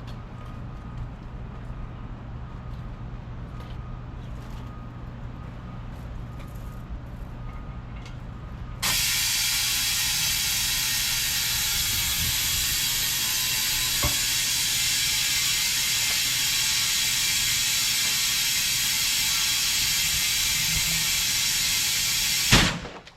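A low steady hum, then about nine seconds in a loud, even hiss of compressed air starts abruptly and holds until it cuts off sharply near the end, most likely air being fed into the freshly plugged truck tire to test the repair.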